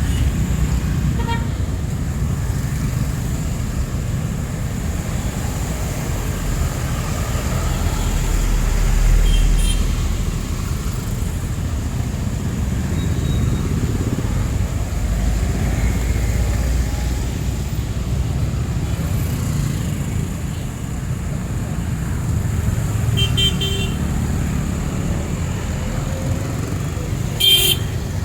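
City street traffic: a steady low rumble of passing cars and motorcycles, with a few short vehicle-horn toots, the loudest near the end.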